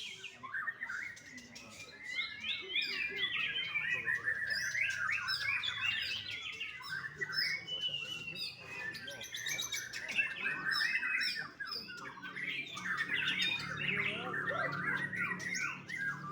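Young white-rumped shama singing a fast, varied stream of chirps, whistles and rattling notes, with a brief pause about eleven seconds in.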